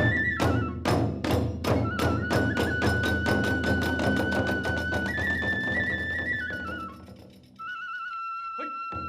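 Kagura festival ensemble: a bamboo transverse flute plays a high, stepping melody over fast, even drum and hand-cymbal beats. About seven seconds in the beats fade away, leaving the flute holding a note alone.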